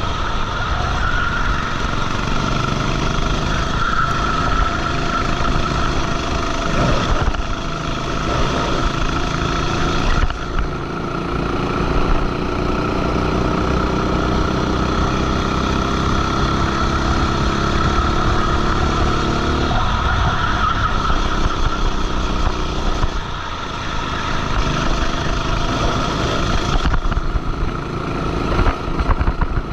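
Go-kart engine heard onboard during a race lap, its pitch climbing as it accelerates along the straights and dropping sharply several times as the throttle is lifted for corners.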